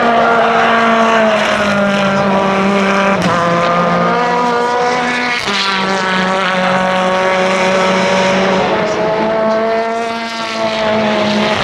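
Racing car engines running hard on a circuit, their pitch shifting several times as gears change.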